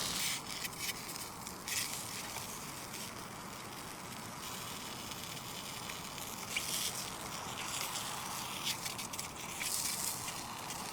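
Sausages sizzling as they cook over the camp fire, a steady hiss with scattered sharp crackles and pops.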